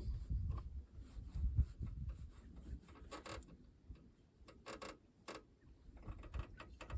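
Handling noises of parts being worked on by hand: low bumps and rubbing at first, then scattered sharp clicks and short clattery knocks, with the loudest about three and five seconds in.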